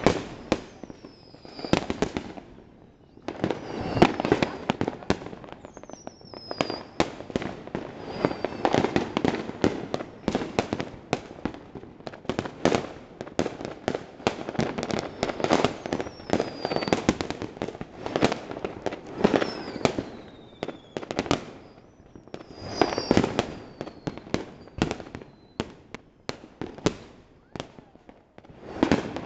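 Fireworks and firecrackers going off all around in a dense, irregular barrage of bangs and crackles. Several short falling whistles sound high above the bangs.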